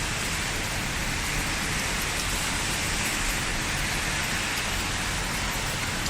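Steady rain falling and pattering on surfaces, an even hiss with no single drops standing out.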